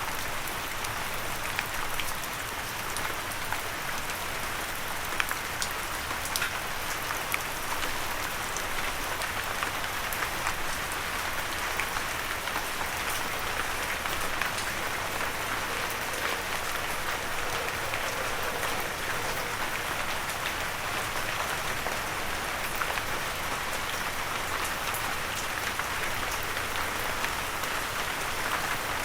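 Steady light rain falling on a surface, a continuous patter with many individual drop ticks. No thunder.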